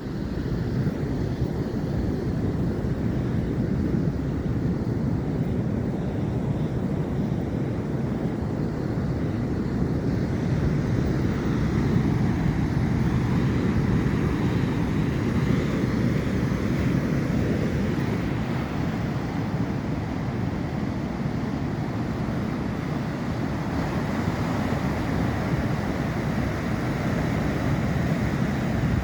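Steady rush of Atlantic ocean surf with low wind rumble on the microphone, swelling and easing slowly.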